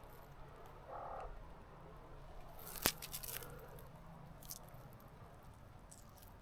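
Faint footsteps on the forest floor, a few scattered crunches with one sharper click about three seconds in.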